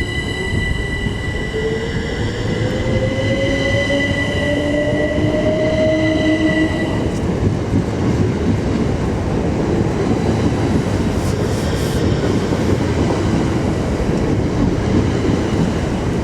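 Class 387 Electrostar electric multiple unit pulling away from the platform, its traction motor whine climbing in pitch over the first several seconds as it accelerates. The rumble of its wheels on the track builds and carries on as it gathers speed.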